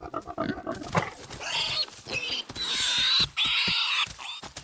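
A warthog squealing as lions bring it down, a long shrill squeal through the middle with scuffling knocks around it.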